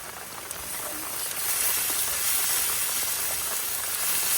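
Food frying in hot oil, sizzling steadily as it is stirred in with salt, chili and turmeric; the sizzle gets louder about a second and a half in.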